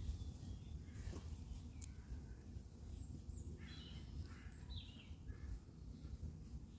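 Faint bird calls, a few short chirps about halfway through, over a steady low rumble.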